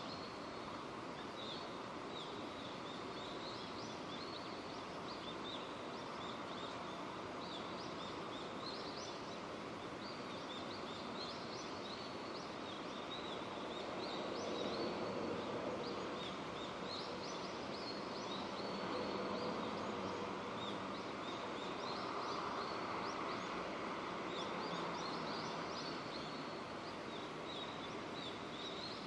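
Steady rain falling, an even hiss, with small birds chirping again and again over it.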